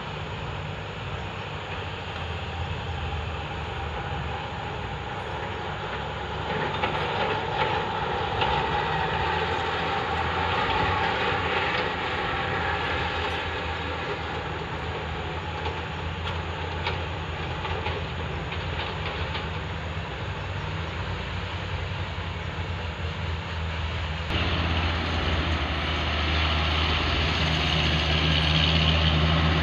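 A heavy vehicle's engine running steadily with a rattling, clattering noise over it. The sound changes abruptly about 24 seconds in, getting louder and rougher.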